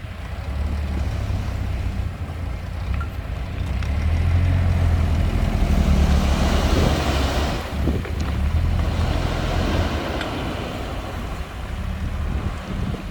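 Heavy diesel engine of earthmoving machinery running with a deep, steady rumble that swells through the middle, with a rushing noise around the loudest part.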